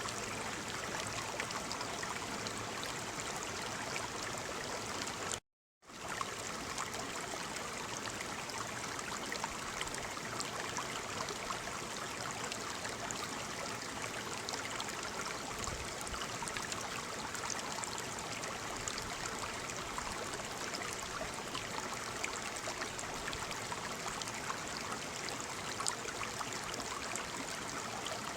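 Waterfall: a steady, even rush of falling water. About five seconds in, the sound drops out completely for about half a second, then resumes.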